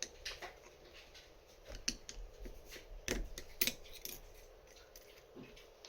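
Irregular small metallic clicks and taps from the parts of a LaGard 2200 lock being handled during disassembly, with light scraping between them; the sharpest clicks come about halfway through.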